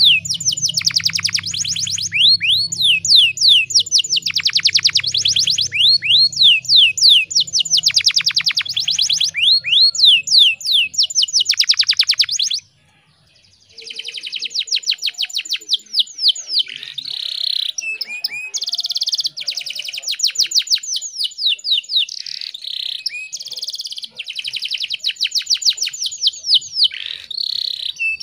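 Female canary calling in rapid, repeated chirping trills, the breeding-condition calls used to get male canaries singing. The calling breaks off about halfway through for about a second, then resumes. A low hum runs under the first half.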